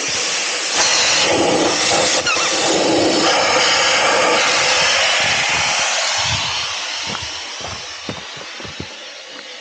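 Air hissing steadily out of an off-road vehicle tire through a Staun automatic tire deflator screwed onto the valve stem, airing the tire down toward its preset 12 psi. The hiss grows fainter over the last few seconds.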